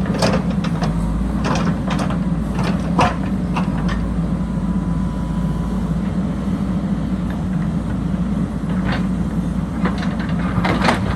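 JCB backhoe loader's diesel engine running steadily at work, with scattered sharp clanks and knocks, bunched near the start, a few seconds in and again near the end.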